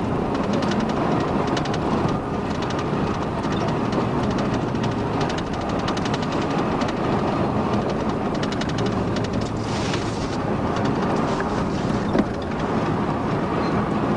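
Steady road and engine noise of a moving vehicle, most likely a police car driving at speed, with a faint regular clatter running through it.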